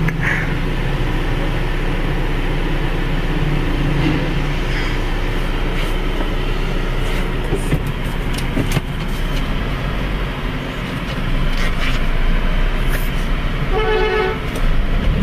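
Car driving in road traffic, a steady low engine and road rumble throughout. A car horn honks once, briefly, near the end.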